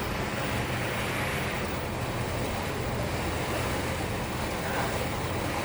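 Steady outdoor wind and sea noise at sea, with a low steady hum underneath.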